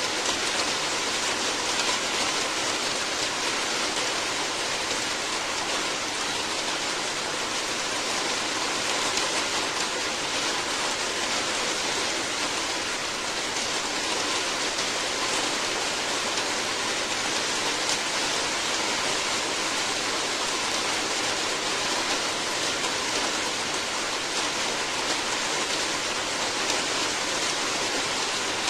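Steady heavy rain, an even hiss without pauses or separate drops standing out.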